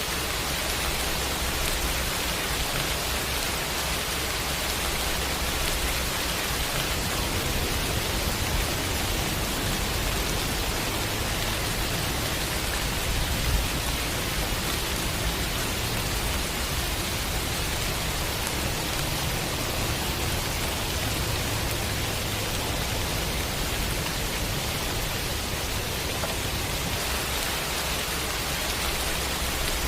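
Steady heavy rain, an even dense hiss of falling drops, with a low rumble underneath.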